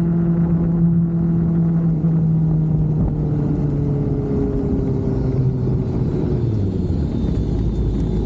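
Motorcycle engine running under way with wind rumble, its pitch falling in several steps over a few seconds and then settling low as the bike slows down.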